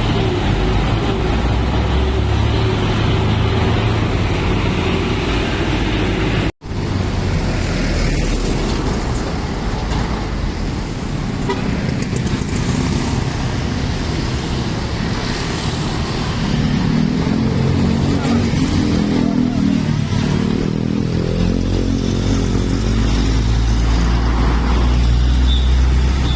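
Heavy sugarcane trucks' engines running as they move past, a steady loud drone with a short break about six and a half seconds in. Toward the end the engine sound grows louder and a pitched tone rises over it.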